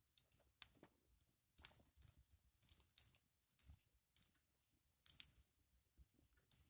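Campfire crackling: burning wood giving irregular sharp pops and snaps, a few each second, the loudest about a second and a half in.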